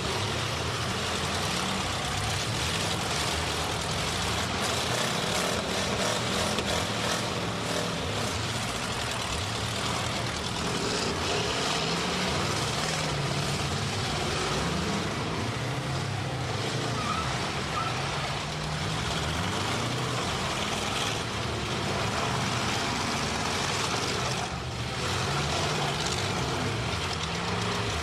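Several demolition derby cars' engines running and revving together, their pitches rising and falling over one another, with a few sharp knocks among them.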